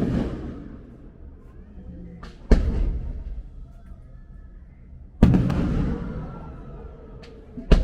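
Aerial fireworks shells bursting: three loud booms about two and a half seconds apart, each followed by a long echo dying away, with fainter cracks in between.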